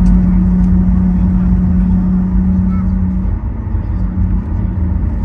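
Cabin noise of a Boeing 737 MAX 8 taxiing after landing: its CFM LEAP-1B engines at idle give a steady low rumble, with a steady hum that drops away about three seconds in.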